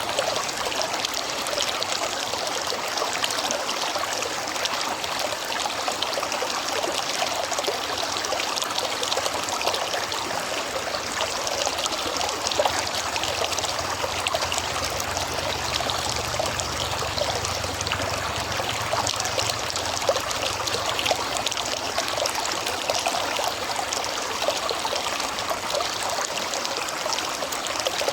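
River water flowing with a steady trickling, babbling rush.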